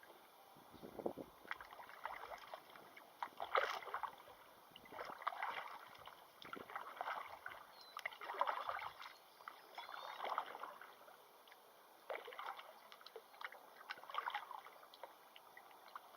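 Kayak paddle strokes: repeated splashy dips of the paddle into the river, a burst every second or two, with small knocks and drips between them.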